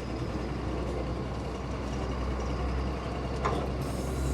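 Heavy truck engine running with a steady low drone while a military deuce-and-a-half is towed to pull-start it.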